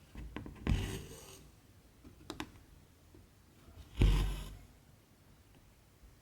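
Cross-stitch handling: embroidery thread drawn through the fabric with a short swish twice, the second with a low thump, and a couple of small clicks in between.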